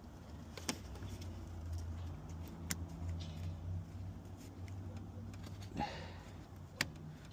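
Cable connectors and wiring being handled while an electrical connection is made: three sharp clicks spread out over a few seconds, with some rustling, over a steady low hum.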